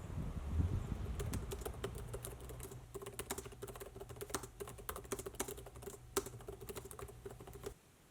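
Rapid, irregular clicking, like typing on a keyboard, over a steady low hum; everything cuts off suddenly near the end.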